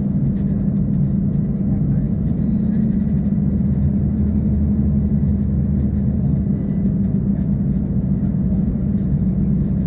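Steady in-cabin drone of an Embraer ERJ-140 in flight: its rear-mounted Rolls-Royce AE 3007 turbofans give a strong low hum over the rumble of the airflow. A deeper hum swells for a few seconds in the middle.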